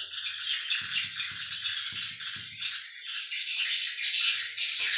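Dense, continuous chirping and twittering of swiftlets. Four soft low knocks come about half a second apart, starting a second in.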